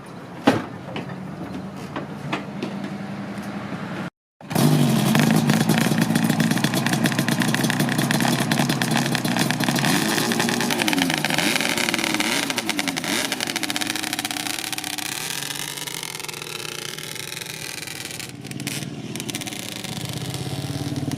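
Motorcycle engine running, with a sharp click about half a second in. After a break about four seconds in, a louder engine runs, its pitch rising and falling repeatedly as the throttle is blipped.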